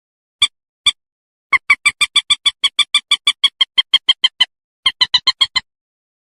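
Common moorhen calling: two short single notes, then a rapid run of about six notes a second lasting about three seconds, and a shorter, quicker run near the end.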